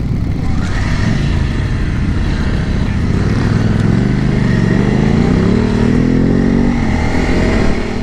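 Single-cylinder engine of a Honda CRF300L Rally dual-sport motorcycle pulling under way, over a steady rush of wind and road noise. Its pitch climbs from about four seconds in as the bike speeds up, then the sound cuts off at the end.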